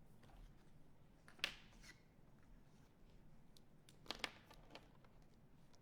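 Near silence broken by a few light clicks and taps of paint markers being handled on a table: one about a second and a half in, then two close together about four seconds in.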